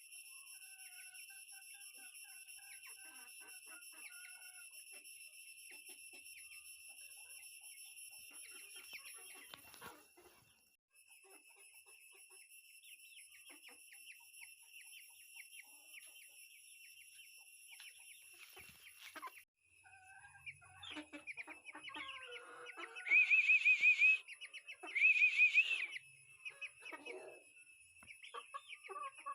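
Birds calling in a fowl yard over a steady high-pitched whine, with scattered faint chirps and knocks. Two loud warbling calls, about a second each, come close together a little past two-thirds of the way through.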